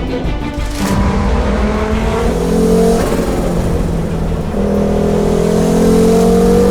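Original Audi quattro's turbocharged inline five-cylinder engine accelerating hard. Its pitch climbs through a gear for about two seconds, breaks at a shift, then climbs again.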